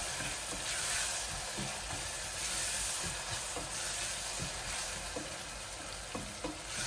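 Sliced onions sizzling gently in stainless steel pans over a low gas flame, with a wooden spoon stirring in one pan and making occasional light clicks against the metal.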